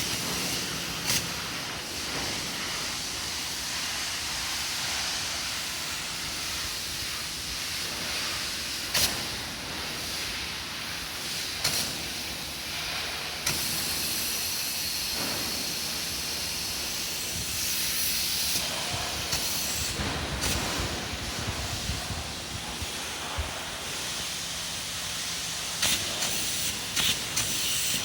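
Spray polyurethane foam gun hissing steadily as insulation foam is sprayed, with a few sharp clicks along the way.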